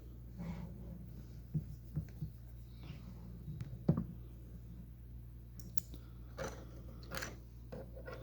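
Lego pieces being handled: scattered small plastic clicks and rattles as bricks are picked out and pressed together, the sharpest about four seconds in, over a steady low hum.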